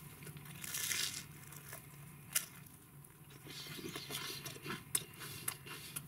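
Someone bites into a crisp toasted bread slice spread with fish pâté and chews it. There is a crunch about a second in, a sharp crack a little later, and then a run of small crackling crunches as the toast is chewed.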